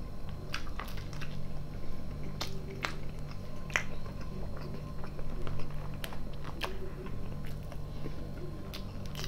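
A man chewing and biting food close to the microphone, with scattered short wet mouth clicks.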